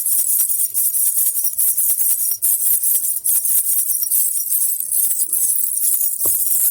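A baby rattle (jhunjhuna) shaken steadily, giving a continuous, dense jingling of small bells. A brief low knock sounds about six seconds in.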